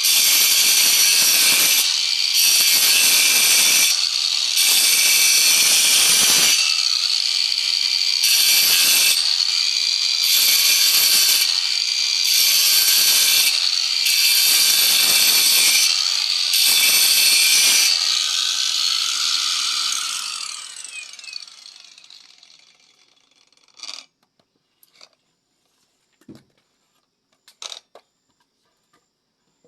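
Hand-held electric power tool shaping wood: a steady high motor whine with grinding noise each time it bites, in repeated passes of a second or two with short breaks between them. About 18 seconds in it is switched off and winds down over a few seconds, followed by a few light knocks.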